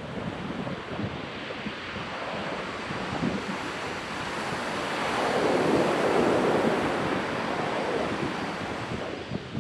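Ocean surf on a beach: a wave's rush swells to its loudest about halfway through, then eases off, with wind buffeting the microphone.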